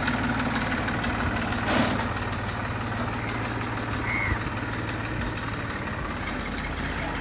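Tractor engine idling steadily, moments after being started.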